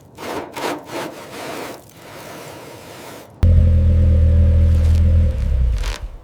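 Workshop sounds: a few rubbing or scraping strokes, then a loud, low, steady mechanical drone that starts abruptly about three and a half seconds in, runs for about two seconds and fades away.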